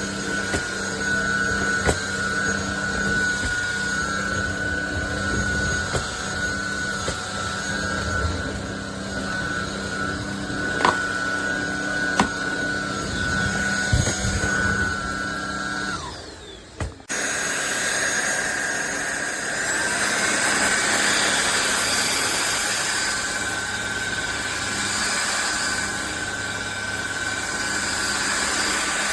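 INTETURE BP20 cordless stick vacuum running, with a steady high motor whine over rushing air and a few sharp ticks. About sixteen seconds in it drops out for about a second, then runs on with a brighter hiss.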